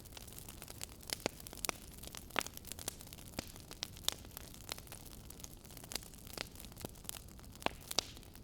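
Fire in a fireplace crackling: irregular sharp pops and snaps, several each second, over a steady soft hiss.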